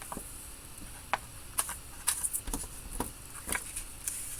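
About six light, scattered taps and ticks of hands handling small paper-craft pieces on a table: foam adhesive dimensionals being picked from their sheet.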